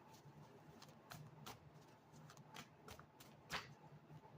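Faint, scattered soft clicks and taps over a low background hum, with one slightly louder click about three and a half seconds in.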